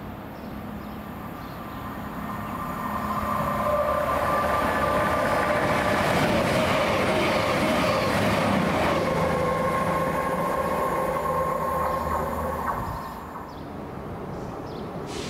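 Diesel train passing through the station: its sound builds up, stays loud for several seconds and dies away, and its engine note drops in pitch as it goes by.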